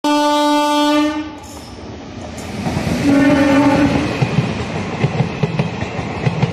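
WAG-9 electric locomotive horn sounding two blasts of about a second each, the first at the start and the second about three seconds in. Then the passenger coaches rush past with a rhythmic clatter of wheels on the rails.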